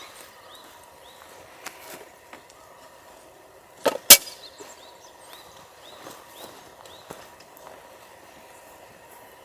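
Small birds chirping over and over in the background, short repeated calls, with two sharp knocks close together about four seconds in.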